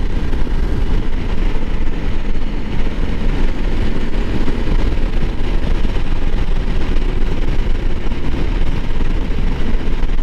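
Honda CRF300L Rally's single-cylinder engine running steadily while riding, mixed with heavy wind noise on the microphone.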